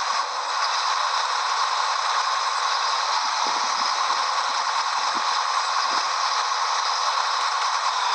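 Steady, loud rushing noise with a rattle running through it, like a truck's cab while it drives on the road.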